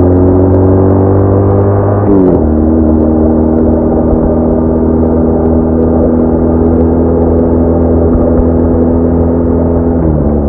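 BMW R1200R boxer-twin engine pulling under acceleration, its pitch climbing. It drops sharply on an upshift about two seconds in, then rises again until another upshift near the end, over a steady rush of wind.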